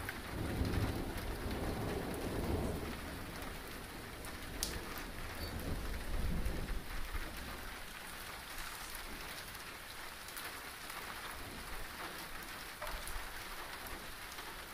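Heavy monsoon rain pouring down steadily, with low rolling thunder rumbling through the first few seconds and again about six seconds in.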